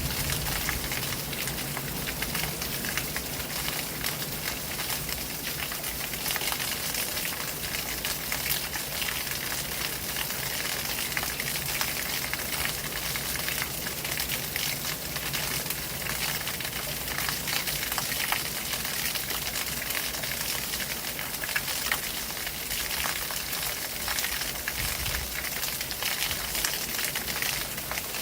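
Water flowing and splashing, a steady dense hiss with a fine crackle of droplets running through it.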